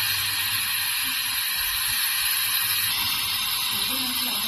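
Steady hiss of compressed air from a small air pump converted from a refrigerator compressor, pressurising a refrigerator's refrigerant lines, with a faint low hum underneath.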